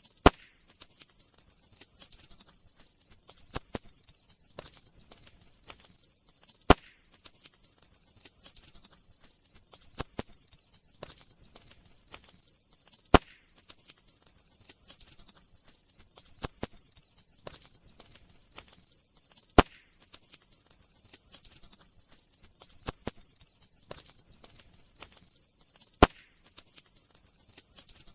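Wood fire crackling: scattered small crackles, with a sharp loud pop about every six and a half seconds, over a faint steady hiss.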